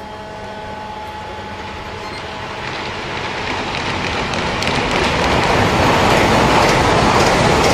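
High-speed train approaching and rushing past: a rushing noise that swells to its loudest near the end, with a few faint steady tones at the start.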